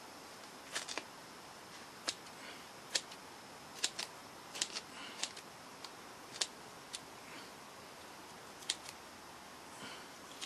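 Scissors snipping through thick upholstery foam in short, sharp, irregular cuts as the cheek pieces are trimmed down smooth, with a pause of about two seconds before the last few snips.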